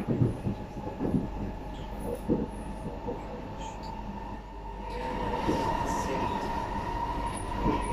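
Inside an SMRT metro train car running between stations: a steady low rumble with scattered knocks, then about five seconds in a steady whine and hiss grow louder.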